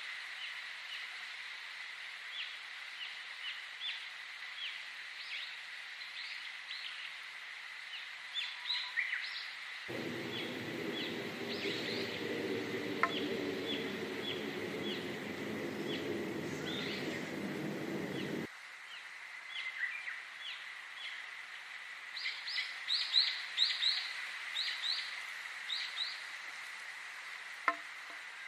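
Wild birds chirping, many short quick chirps repeating over a steady high tone. For about eight seconds mid-way, a steady rushing noise comes in abruptly and cuts off just as suddenly.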